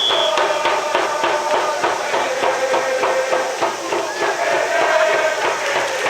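Stadium cheering section in the stands: held musical or chanted notes over rapid, dense claps or drum strikes, with many voices.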